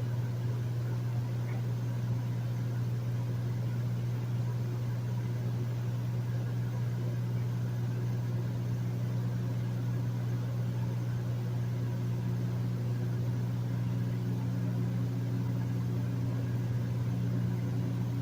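Hotel room air conditioner running steadily: a constant low hum with an even hiss of moving air over it.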